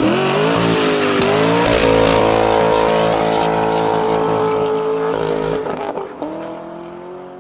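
Car engine accelerating hard. Its pitch climbs and holds high, drops at a gear change about five seconds in, climbs again and then fades away.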